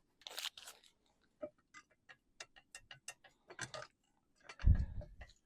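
Light metal clicks and taps of camp cookware being handled, a pot-holder clamp on the pan, with one louder low thud about four and a half seconds in.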